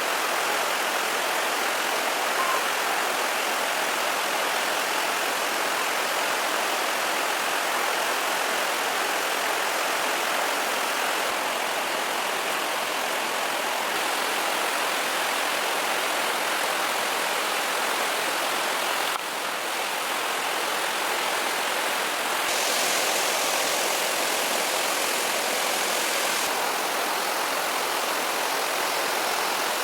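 Steady rushing noise of running water, shifting slightly in tone at a few points.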